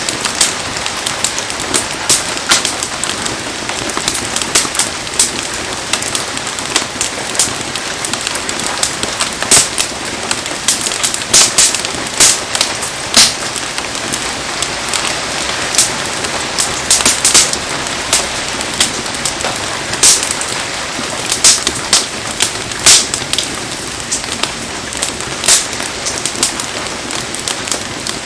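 Heavy rain falling steadily, with frequent sharp pops and crackles from a wood bonfire burning in the downpour.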